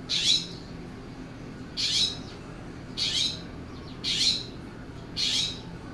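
California scrub jay giving five short, harsh calls, each under half a second, spaced about a second apart.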